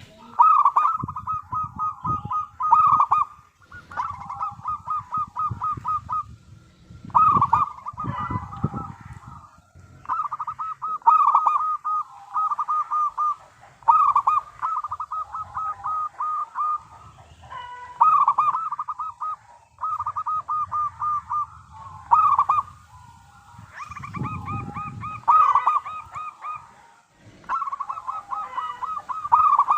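Zebra dove (perkutut) calling: phrase after phrase of quick cooing notes, each phrase a couple of seconds long with short breaks between. A low rumble sits under some of the phrases.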